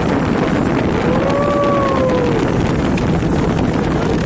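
Speedboat engine running under heavy wind buffeting on the microphone, with an engine note that rises and falls once about a second in.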